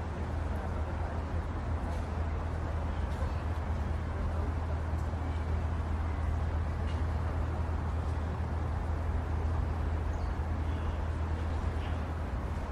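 Steady low rumble of distant road traffic, with a few faint ticks over it.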